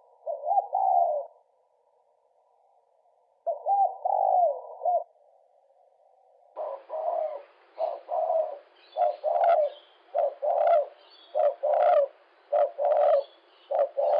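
Birds calling: two short calls in the first five seconds, then from about six and a half seconds in a run of about a dozen short repeated calls.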